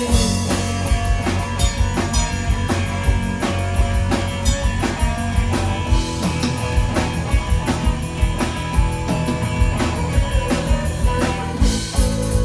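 Live rock band playing an instrumental passage: drum kit keeping a steady, busy beat under electric guitar and bass.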